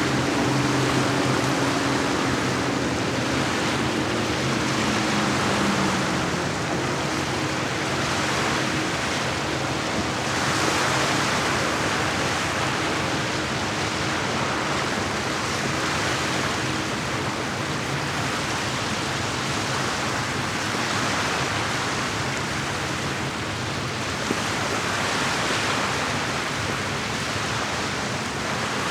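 Lake water lapping and washing against the shore, swelling every few seconds. A motorboat's engine hum fades away in the first few seconds.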